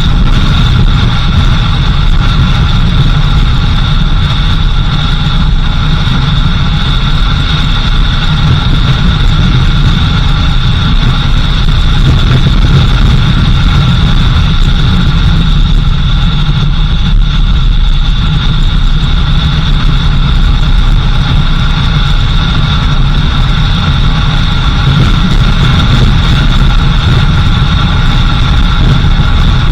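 A vehicle's engine running steadily while driving, a constant low rumble with an even drone above it and no changes in speed.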